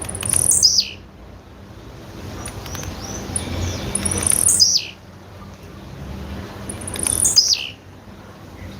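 Blue-black grassquit (tiziu) call, the female's call: three sharp, high notes that slide downward, spaced about three seconds apart.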